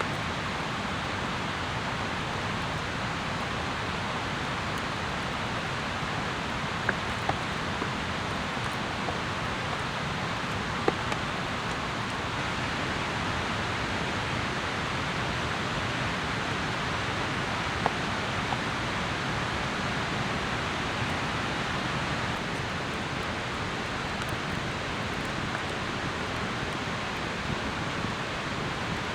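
Steady rain falling, an even hiss with a few sharp ticks of heavier drops here and there.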